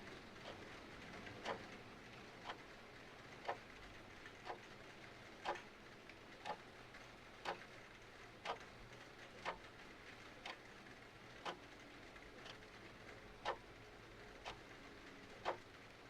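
Clock ticking steadily, about one tick a second, over a faint steady hiss of rain.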